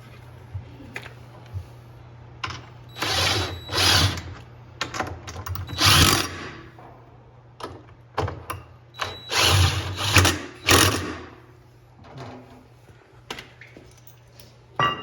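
Power drill-driver running in several short bursts, driving screws during washing-machine reassembly, with small clicks and knocks of parts and tools between the runs.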